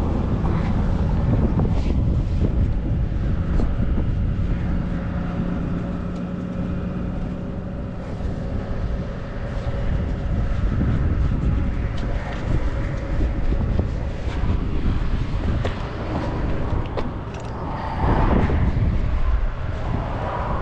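Tow truck engine running steadily, with a few short metallic clicks over it.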